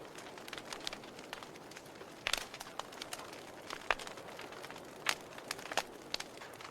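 Campfire burning with a steady soft hiss and irregular crackles and pops, the sharpest about two and a quarter seconds and four seconds in.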